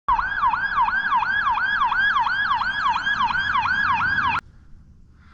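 Electronic emergency-vehicle siren in a fast yelp, its pitch swooping up and down about three times a second. It cuts off suddenly a little over four seconds in.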